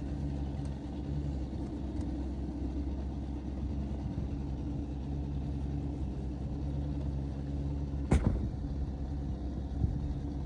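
Boat motor running steadily, a low even hum, with one sharp knock about eight seconds in.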